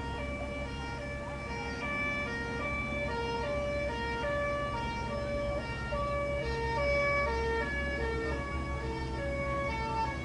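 Emergency vehicle's two-tone siren alternating steadily between a high and a low note, over a steady low rumble.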